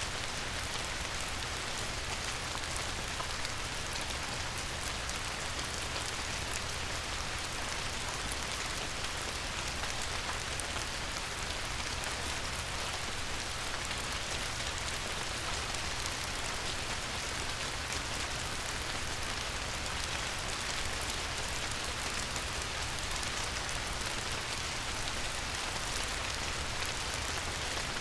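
Light rain falling steadily on a river's surface: an even hiss of countless small drops, with a low steady rumble underneath.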